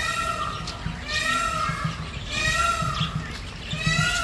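A bird calling repeatedly: four loud, nasal calls, one about every second and a quarter, each rising and falling slightly in pitch.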